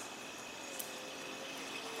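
Outdoor natural ambience: a steady high insect drone over an even hiss, with a faint click about two-thirds of the way through.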